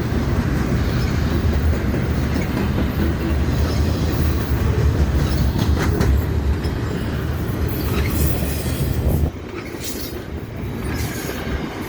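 Freight train rolling past: a steady low rumble of the cars on the rails, which drops off suddenly about nine seconds in.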